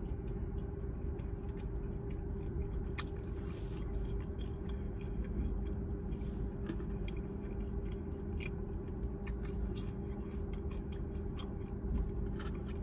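Person chewing a mouthful of fried okra, which she finds a little soggy, with scattered small wet clicks. A steady low hum runs underneath.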